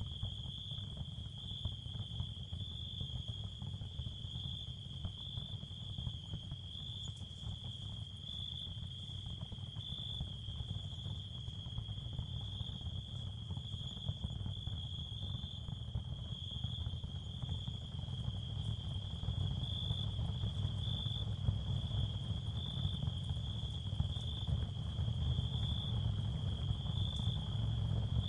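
Ambient sound field meant as tinnitus and sleep therapy: a steady, high, cricket-like chirring over a low rumbling noise. The rumble grows slightly louder toward the end.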